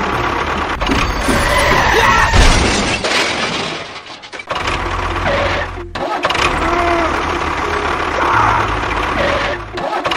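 Engine running, the sound dropping away briefly about four seconds in, again near six seconds and near the end.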